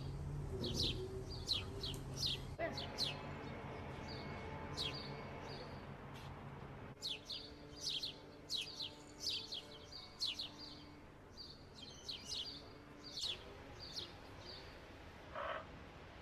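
Small birds chirping: short, high notes that slide downward, coming in quick clusters, with faint soft music underneath.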